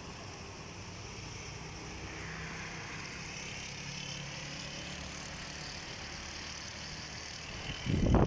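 Steady, low engine drone under a faint hiss; a loud, rough rush of sound breaks in just before the end.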